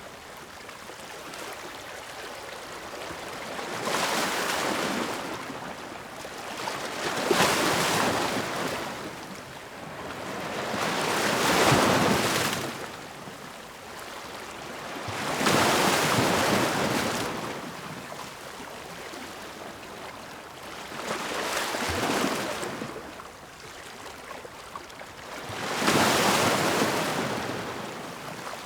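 Ocean waves breaking on the shore, a steady hiss of surf that swells and ebbs with each wave, about every four seconds.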